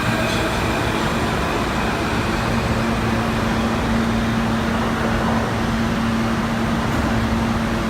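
Steady rumble inside a New York City subway car, with a constant low hum running under it.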